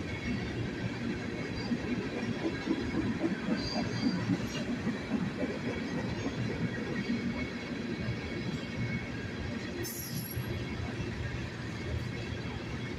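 Freight train rolling past, a steady rumble of wheels on rail with faint squealing from the wheels. A single sharp metallic clank about ten seconds in.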